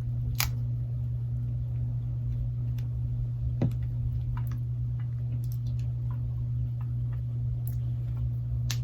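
A steady low hum with scattered light clicks and ticks as a smartphone's back glass is handled and pressed against the phone frame to check the fit.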